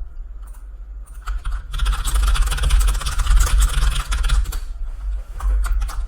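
Typing on a computer keyboard: a few scattered key clicks, then a fast, dense run of keystrokes from about two to four and a half seconds in, over a low steady hum.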